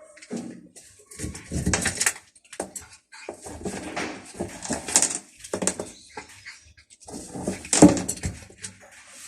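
Hungry cats vocalizing in short, irregular bursts, the loudest one near the end.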